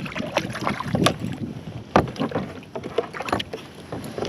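Irregular knocking and clattering of handling on a kayak, with the sharpest knocks near the start and about one and two seconds in.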